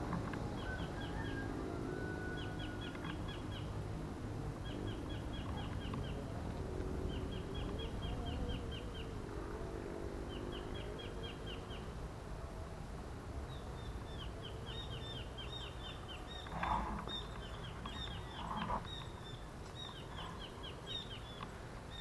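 A bird calling in short rapid trills of high chirps, one burst every second or two, over a steady low outdoor background. Two short rustles stand out late on.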